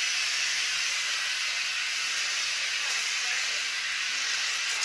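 Dirt Devil Reach Max Plus cordless stick vacuum running, its motor and intake airflow making a steady, even hiss.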